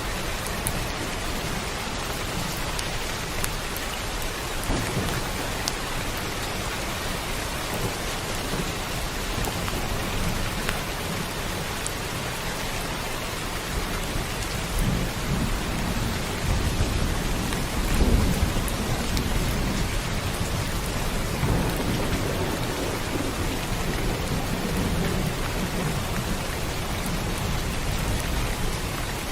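Steady heavy rain hissing, with rolling thunder rumbling low in the second half, loudest about eighteen seconds in.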